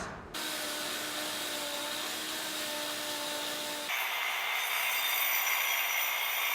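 Steady workplace machine noise in two abrupt segments. First, a machine runs with a low, even hum. About four seconds in it cuts suddenly to a higher-pitched power tool or sawing noise with whining tones.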